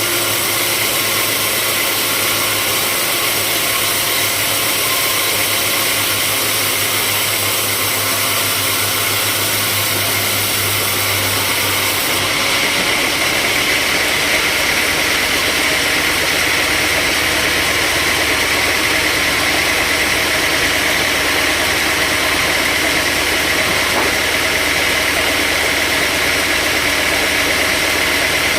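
Sawmill machinery running steadily. About twelve seconds in, a low hum stops and a higher whine grows stronger.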